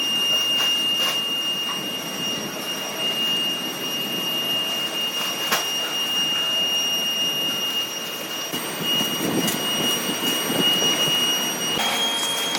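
Workshop machinery running steadily, with a high-pitched whine over a noisy hiss; the whine steps up in pitch near the end, and a few brief clicks sound.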